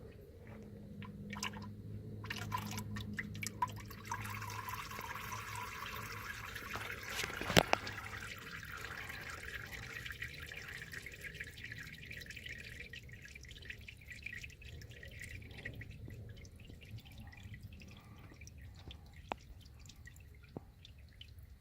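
Old engine oil draining from a 6.0 Power Stroke diesel's oil pan into a drain pan: a steady splashing stream that thins over the following seconds into scattered drips. A single sharp click comes about seven seconds in.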